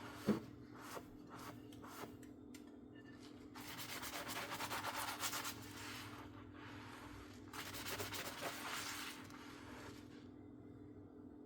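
Dishes being scrubbed by hand with a sponge: a sharp clink of dishware just after the start and a few light taps, then two stretches of rhythmic back-and-forth scrubbing, each about two seconds long.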